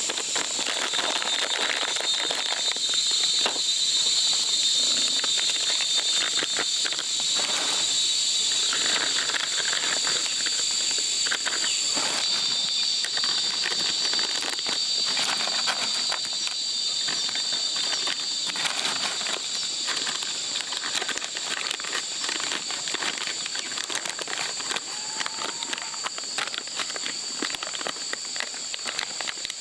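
Outdoor natural ambience: a steady, high-pitched insect chorus with frequent small crackles and rustles, like handling or steps in dry leaves.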